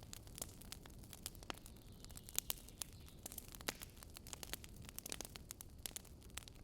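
Wood campfire crackling: irregular sharp pops and snaps of burning dry wood over a steady low rush, with one louder pop about two and a half seconds in.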